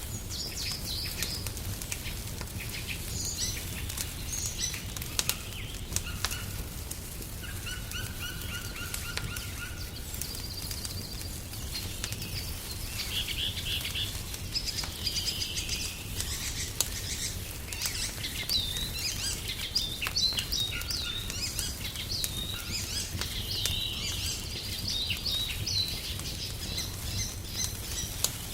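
A wood fire crackling, with scattered sharp pops over a steady low rumble, while songbirds chirp and sing in short repeated phrases.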